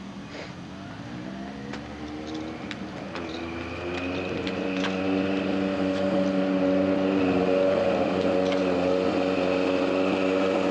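Motorcycle engine running, rising in pitch and growing louder over the first few seconds, then holding a steady note.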